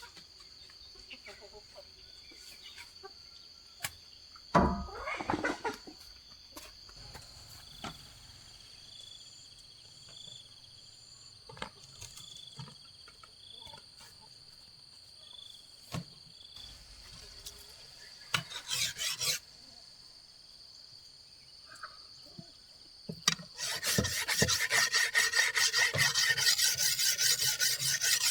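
Scattered knocks and clatters of handling wood and debris, then, from about 23 seconds in, fast, even rasping strokes on wood that keep going steadily. A steady high insect drone runs underneath.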